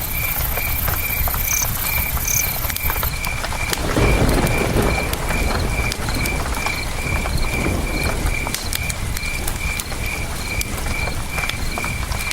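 Campfire crackling with scattered sharp pops over a steady rush of river water, with a cricket chirping evenly about twice a second. The water noise swells briefly about four seconds in.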